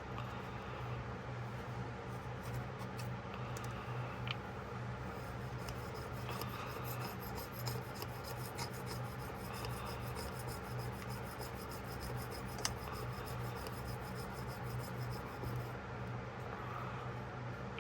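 Hand scrubbing and scraping at the parts of an old pocketknife while it is being cleaned, with quick repeated rasping strokes through the middle stretch and a couple of small clicks, over a steady low hum.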